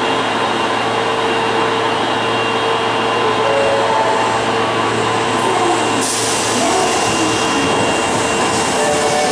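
Osaka Municipal Subway Sennichimae Line train at the station platform, a loud steady rumble and whine of the running train. A sharp hiss starts suddenly about six seconds in and carries on to the end.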